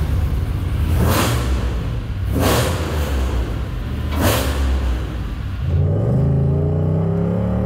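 Swapped-in GM LS V8 in a Mercedes-Benz W124 running with a low, steady rumble just after starting, broken by three brief rushes of noise. About six seconds in, heard from inside the cabin, the engine pulls under acceleration, its pitch rising steadily.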